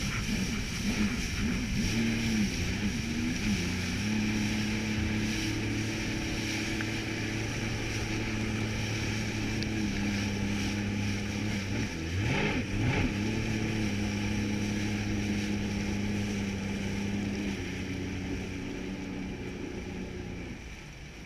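Jet ski engine running at a steady pitch, with a brief dip and pick-up about twelve seconds in, then easing off and getting quieter near the end.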